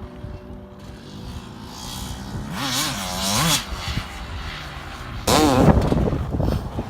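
Motocross dirt bike engines revving, their pitch rising and falling with the throttle as bikes ride past. A louder bike comes in suddenly about five seconds in, its engine note dropping.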